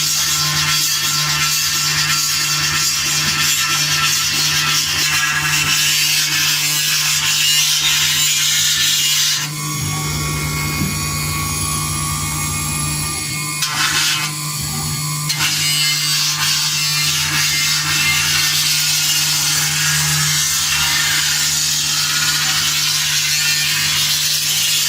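CNC engraving machine's spindle running and cutting, a steady hum under a hissing, grinding cutting noise. About ten seconds in, the grinding gives way to steady whining tones for several seconds, with a click near the end of that stretch, then the cutting noise returns.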